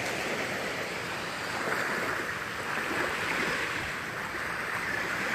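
Gentle surf washing on a sandy Gulf beach, a steady hiss of small waves that swells slightly and falls back.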